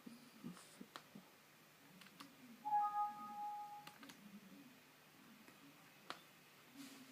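Scattered computer mouse clicks, with a steady pitched tone lasting about a second near the middle, the loudest sound here.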